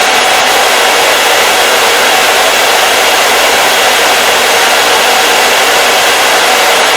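Hair dryer running steadily: an even, loud rush of air over the fan motor's whine, with no change in speed.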